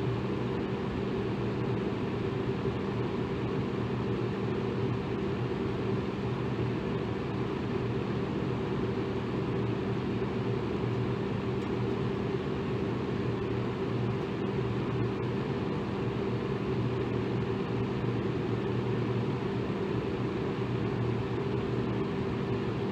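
Electric fan running steadily: an even rush of moving air over a low motor hum with a few steady tones.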